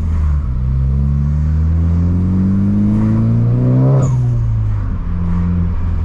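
Turbocharged Ford Focus ST engine pulling hard under acceleration, its pitch rising steadily for about three and a half seconds. About four seconds in the revs drop sharply as the throttle closes, with a short high hiss, then the engine runs on at lower revs.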